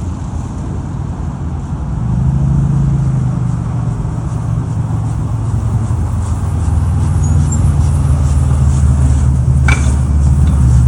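Steady low engine hum that grows a little louder partway through, with a brief click near the end.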